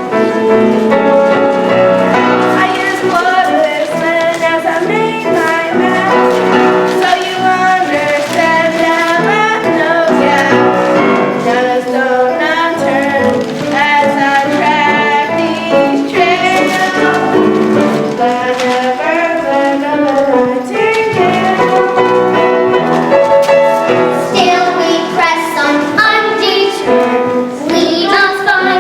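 Children singing a musical-theatre song with instrumental accompaniment, the melody held and moving steadily without pause.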